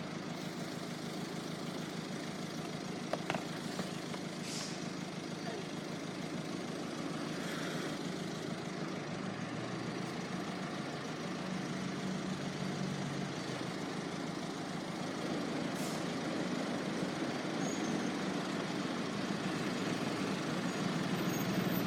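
Class 444 electric multiple unit train standing at the platform with its equipment humming steadily, the hum shifting in pitch partway through and growing steadily louder, with a few brief faint hisses.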